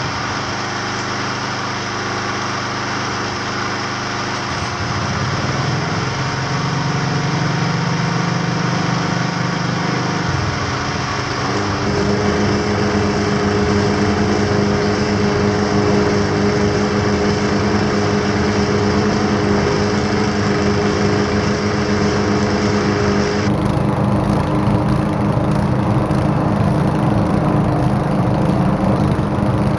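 Many small engines running at the same time, a loud, dense mix of several engine notes. It grows louder about five seconds in and again about twelve seconds in.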